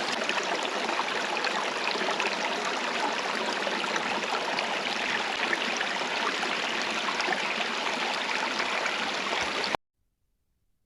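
Running water rushing steadily, with small splashes flickering through it; it cuts off suddenly near the end.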